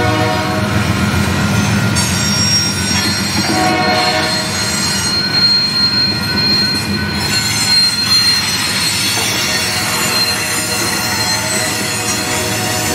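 Freight cars of a Norfolk Southern train, covered hoppers and tank cars, rolling past: a steady low rumble of wheels on rail, with sustained high squealing tones over it that fade and return.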